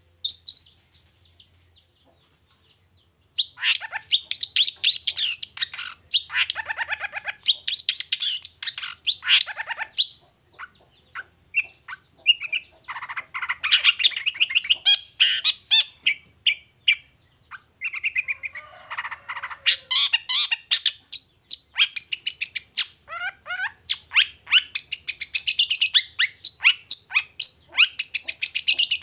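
Long-tailed shrike singing a loud, fast, chattering song of rapid high notes, rasps and short sweeps in long phrases with brief pauses, starting about three seconds in after a near-silent start.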